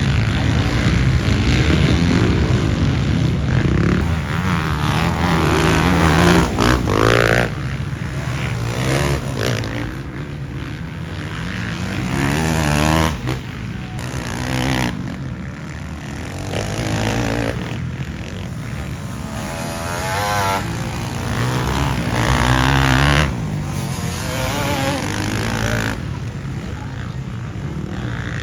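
Motocross dirt bike engines running and revving, the pitch climbing and dropping again and again with throttle and gear changes.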